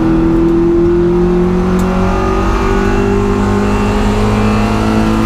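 Car engine running hard at high revs, one sustained note that climbs slightly over the first couple of seconds and then holds.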